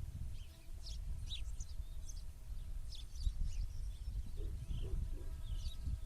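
Small birds chirping and twittering in short, quick calls throughout, over a constant low rumble.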